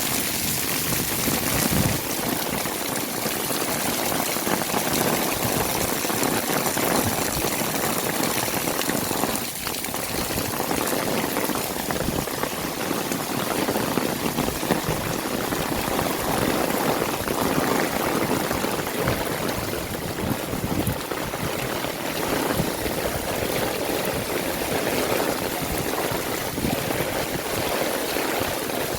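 Heavy rain falling steadily, with water running and pouring as the runoff flows.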